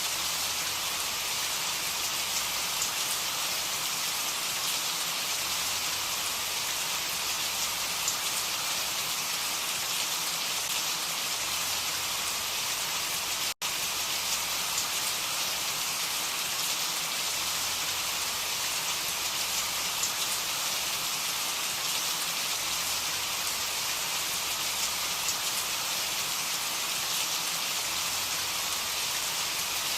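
Steady rain falling: an even hiss with scattered small drop ticks, broken by a split-second gap about halfway through.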